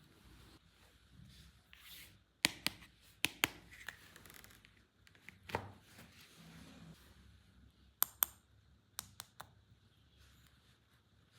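Hands handling plastic toy pieces and packaging, making scattered sharp clicks, several of them in quick pairs, over faint rustling.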